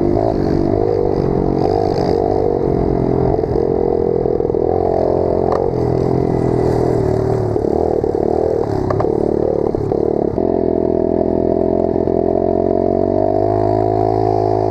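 Pit bike engine running steadily while being ridden, with a few sharp knocks and clatter over the ground.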